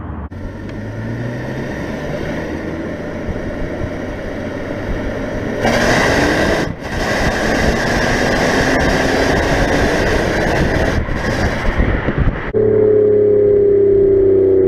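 Toyota Camry XSE's 3.5-litre V6 with a Magnaflow exhaust and AEM cold air intake accelerating, its pitch rising and getting louder about six seconds in, with a short drop about seven seconds in like a gear change. Near the end the sound switches abruptly to a steady engine note that slowly falls in pitch.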